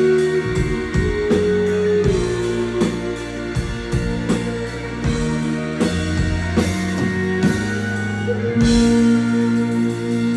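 Live rock band playing an instrumental passage on electric guitars, bass and drum kit, with steady drum strikes under held chords. About eight and a half seconds in, a cymbal crash comes in with a new, louder held chord.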